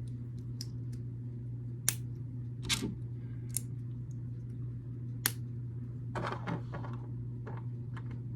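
Small plastic building bricks being handled and snapped together: a few separate sharp clicks a second or so apart, then a short run of them, over a steady low hum.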